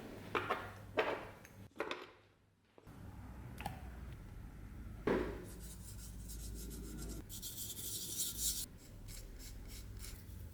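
Hand rubbing and scraping on a wooden part of an antique spinning wheel, in a few separate strokes at first and then a quicker run of strokes near the end, over a steady low hum.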